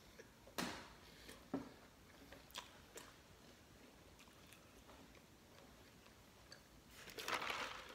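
A person chewing food with the mouth closed: faint, with a few sharp mouth clicks in the first three seconds and a louder noisy burst about a second long near the end.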